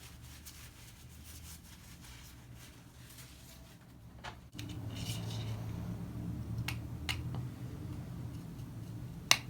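Hands working a plastic RC shock absorber: faint rubbing and a few light clicks, with one sharp click near the end, over a low steady hum that grows louder about halfway through.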